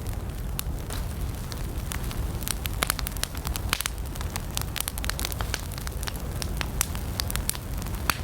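Wood campfire burning: a steady low rumble of flames with frequent sharp, irregular crackles and pops of the burning wood.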